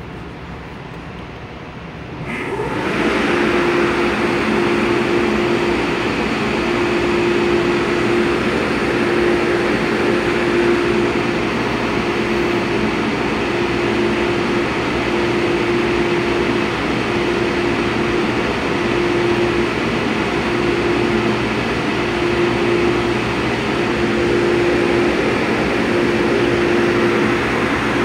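Inside an MTR A-Train electric multiple unit running at speed. The running noise is quieter at first, then rises sharply about two seconds in to a loud, steady rumble with a steady hum underneath.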